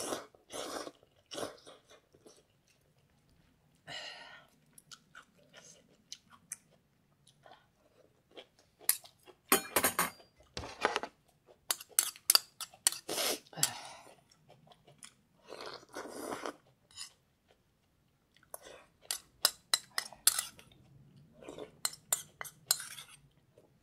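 A person eating ramen noisily, slurping noodles and chewing, heard as an irregular run of short wet bursts with brief pauses between mouthfuls.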